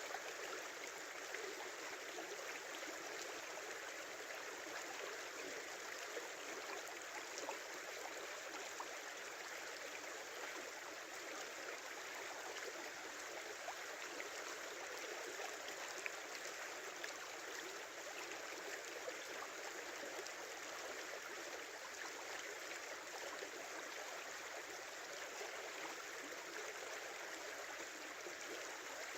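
Small river flowing and babbling steadily over stones, with ice and snow along its banks.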